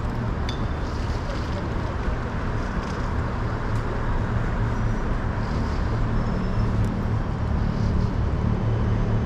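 City street traffic: vehicle engines running steadily with a low hum and the rush of passing traffic, a few faint clicks on top.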